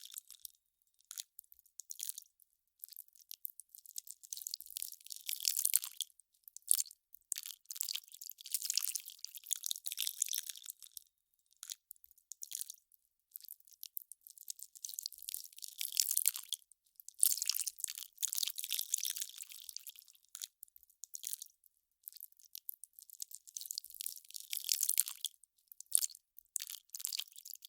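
Melting ice crackling: irregular clusters of fine, high crackles, each lasting up to a couple of seconds, separated by short silences.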